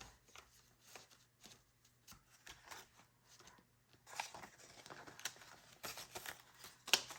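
Paper banknotes being leafed through and handled: soft rustling and flicking, busier from about four seconds in, with a sharp click near the end.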